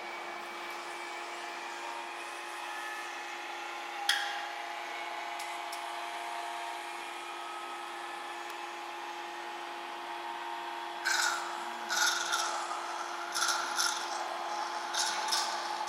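Steady mechanical hum during injection of oil and sealant into a van's air-conditioning system, with a sharp click about four seconds in and a run of short rasping hisses from about eleven seconds on.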